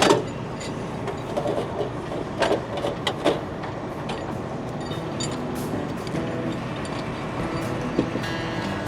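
Boom truck engine running steadily, with a few sharp knocks and clanks in the first few seconds.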